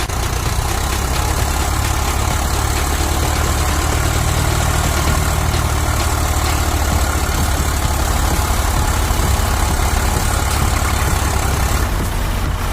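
Swaraj 855 tractor's three-cylinder diesel engine running steadily, loud and low-pitched.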